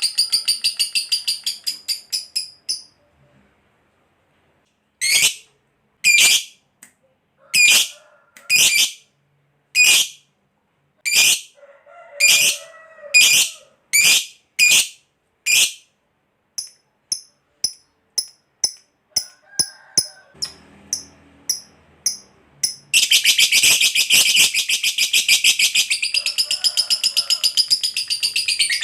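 Lovebird calling: a high rapid trill fades out near the start, followed by a string of sharp single chirps about once a second, then softer quick chips. From about two-thirds of the way through comes one long unbroken rapid trill, the long 'ngekek' chatter prized in fighter lovebirds.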